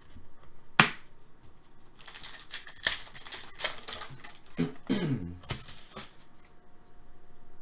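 Trading cards and their packaging being handled: a sharp snap about a second in, then a run of crinkling and sliding strokes from about two seconds to six seconds, with a short falling tone near five seconds.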